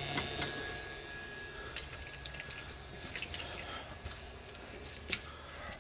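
A battery charger's electrical hum cuts off right at the start, followed by scattered, irregular sharp clicks and crackles.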